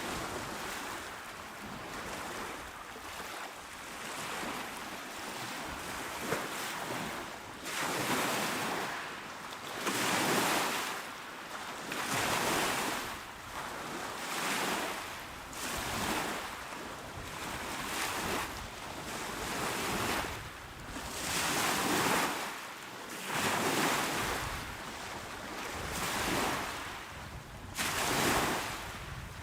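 Small waves washing onto the shore, a steady hiss of surf that swells and falls back roughly every two seconds.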